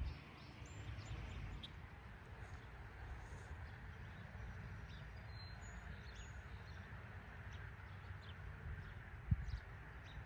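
Faint outdoor ambience: scattered distant bird chirps over a steady low rumble, with a soft thump near the end.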